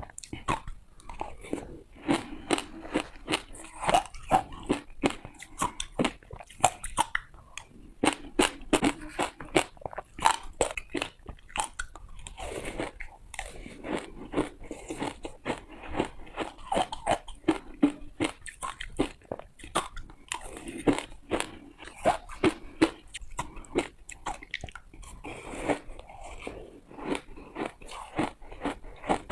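Close-up crunching of a person biting and chewing hard ice, with rapid crackling crunches in clusters separated by brief pauses between bites.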